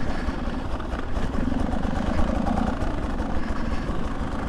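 Beta 200 two-stroke dirt bike engine running steadily, swelling slightly about halfway through.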